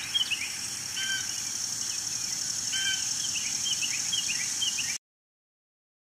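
Birds chirping in quick runs of short, falling notes, with a couple of brief whistled calls, over a steady high hiss. The recording cuts off abruptly about five seconds in.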